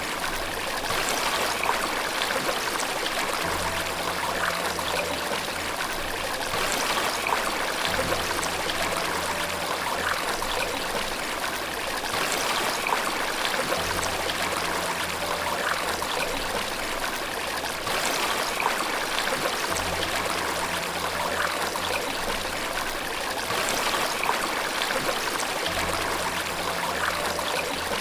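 Steady rushing and trickling water from a stream or waterfall recording, with the same splashes recurring about every six seconds. Soft low held notes that change every couple of seconds sit beneath the water.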